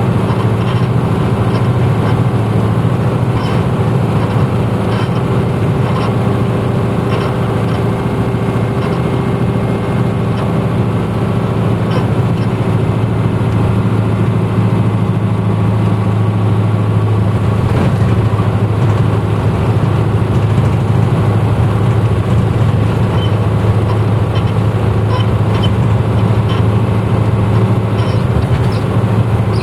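Diesel engine of a 1994 Hino Blue Ribbon U-HT2MPAA city bus running steadily, heard from inside the cabin, with small rattles and clicks from the bus interior.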